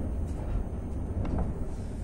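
Steady low rumble of a ČD CityElefant double-deck electric train running along the track, heard from inside the passenger car, with a few faint clicks about a second in.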